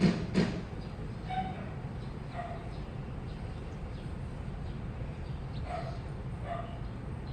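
Washing machine running: its drum knocks in a steady rhythm about twice a second, then stops knocking half a second in, leaving a low steady rumble. Four short, high whines sound over the rumble.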